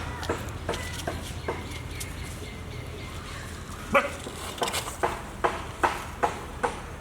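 Puppies giving short, sharp yaps: a few near the start, then a quicker run of them from about four seconds in.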